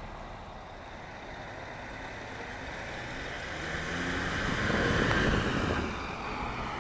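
A pickup truck with a 2.4-litre four-cylinder engine driving past. Engine and tyre noise build to a peak about five seconds in, then fall away.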